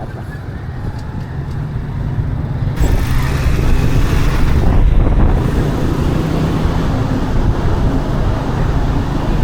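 Vehicle engine and road noise heard while riding along, a steady low rumble that grows louder about three seconds in.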